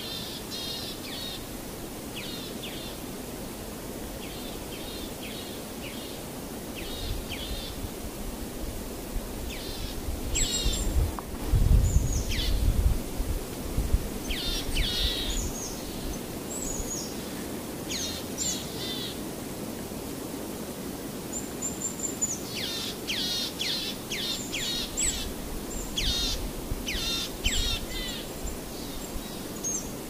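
Birds chirping in short, quick series of high calls, scattered through and thickest near the end, over a steady hiss. A low rumble swells about ten seconds in and fades a few seconds later.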